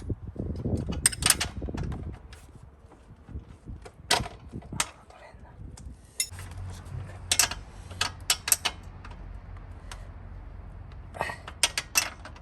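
A series of sharp clicks and clinks, some in quick clusters, over low rumbling handling noise in the first two seconds; a low steady hum sets in about six seconds in.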